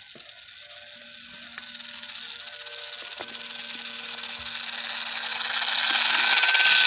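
Battery-powered RC plane's electric motor and propeller whirring as the throttle is opened, growing steadily louder over about six seconds with a thin steady whine. This is an attempted ground take-off in which the plane does not lift off.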